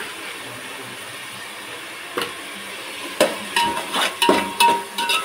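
Onion, ginger-garlic and herb masala sizzling in oil in a pot. From about three seconds in, a metal spoon knocks and scrapes against the pot as it is stirred, a quick run of clanks with a short ringing note.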